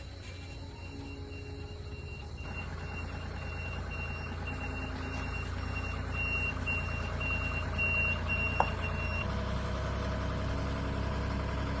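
Truck reversing alarm beeping about twice a second over the engine running, which slowly grows louder. The beeping stops about three-quarters through, just after a single sharp click.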